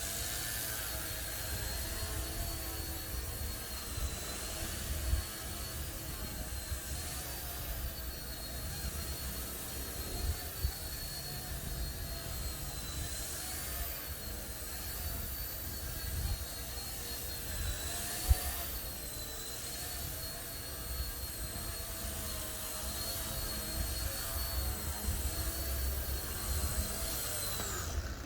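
Small electric RC helicopter in flight: the high whine of its motor and rotors holds steady, wavering slightly in pitch as the throttle changes, over a low rumble.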